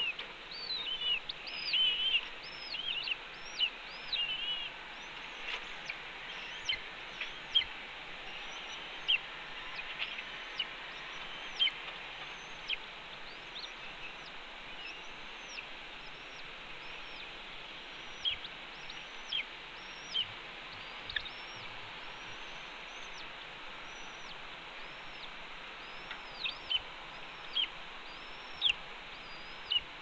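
Short, high bird chirps repeated over a steady outdoor hiss. They come thick and loud for the first few seconds, then every second or few seconds.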